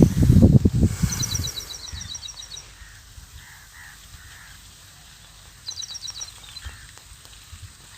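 A small bird calling outdoors in quick runs of high, evenly spaced notes, a longer run about a second in and a shorter one near six seconds in. Low rumbling gusts on the microphone fill the first second or so.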